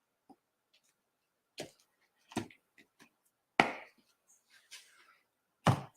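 About four sharp knocks and taps with fainter ticks between, from paint cups and a craft stick being handled and set down on the work table during paint mixing.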